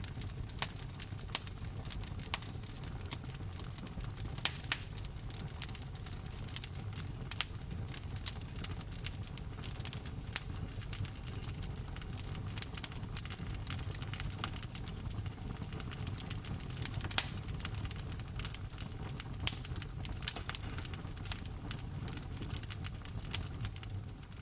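Wood fire burning in a fireplace: a steady low rumble with frequent crackles and sharp snaps, a handful of louder pops scattered through.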